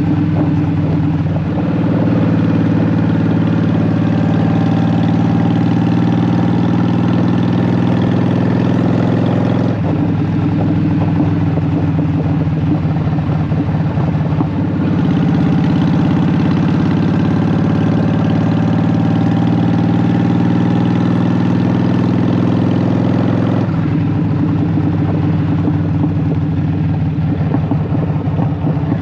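Honda Shadow VT750's V-twin engine running through Vance and Hines Short Shot exhaust pipes, a steady low exhaust note whose pitch and pattern shift several times.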